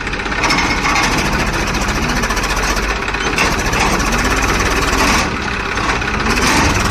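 A heavy vehicle's engine running steadily, with a rapid knocking rattle.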